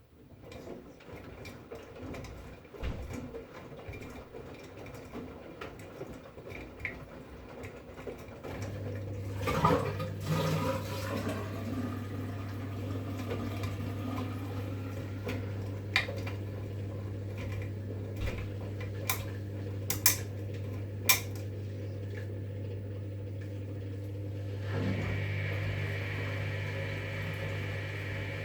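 V-Zug Unimatic SL washing machine with water running and splashing inside it during a wash programme. A steady low hum sets in about a third of the way through, a few sharp clicks come later, and the sound changes a few seconds before the end.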